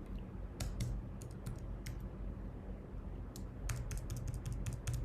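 Typing on a computer keyboard: irregular key clicks in two short runs, over a steady low hum.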